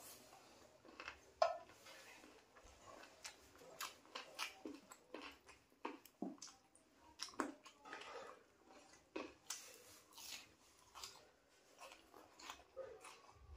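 Close-up mouth sounds of a man eating chicken curry and rice by hand: chewing with irregular short wet smacks and clicks.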